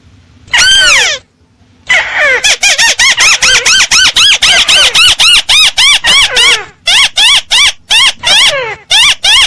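Burung tikusan (crake) lure call: one long, falling call, then from about two seconds in a fast run of short, repeated, arched notes, about four to five a second, with brief breaks. The call is loud and clear.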